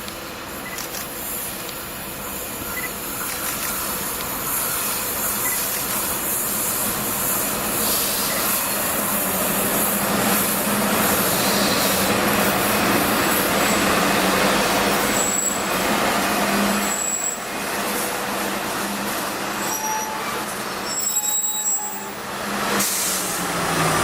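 A train moving through a station: steady rumble of wheels and running gear that swells through the middle, over a steady low hum, with a few short high-pitched squeals from wheels or brakes in the second half.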